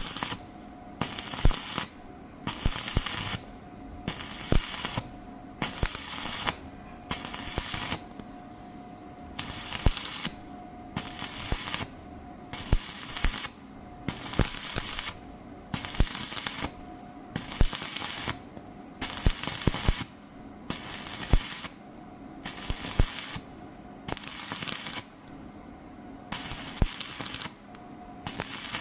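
Stick-welding arc crackling and sputtering in regular bursts, about one every second and a half, with quieter gaps between.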